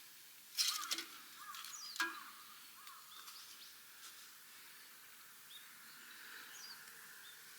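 Quiet open-air ambience with birds giving short chirping calls now and then, and a brief louder rustle with clicks about half a second in and a click about two seconds in.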